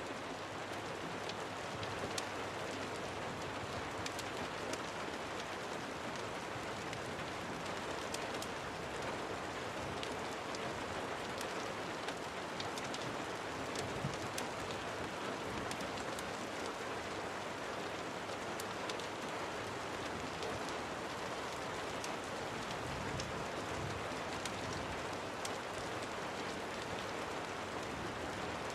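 Steady rain falling, an even hiss with scattered small sharp ticks of drops throughout.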